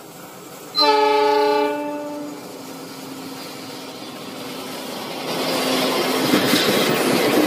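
Diesel locomotive horn sounding one loud blast of several tones together about a second in, lasting about a second and a half. From about five seconds in, the noise of the approaching train on the rails grows steadily louder.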